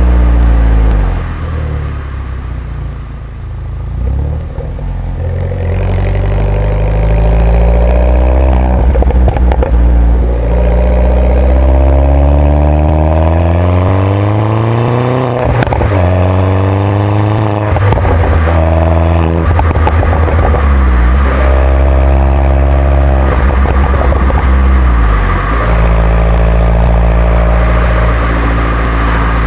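Mini John Cooper Works R57's turbocharged four-cylinder engine and stock exhaust pulling through the gears. After a quieter stretch early on, the note climbs steadily and drops sharply at each upshift, several times, with a few clicks around the shifts, then settles to a steadier lower drone near the end.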